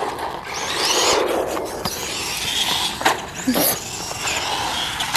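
Electric Traxxas RC truck driving on rough ground: the motor whines up and down in pitch as it is throttled, over a steady crunch of tyres, with a couple of sharp knocks in the middle.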